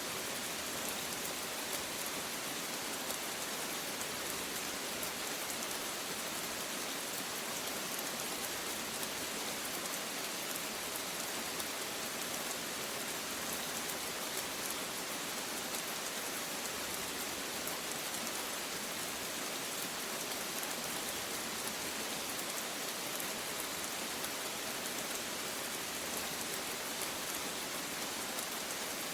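Rain falling steadily, an even hiss with no rises or pauses.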